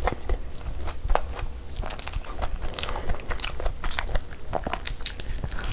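Close-miked eating sounds of a person biting and chewing puri scooped with spicy egg masala: a quick, irregular run of small crunchy clicks.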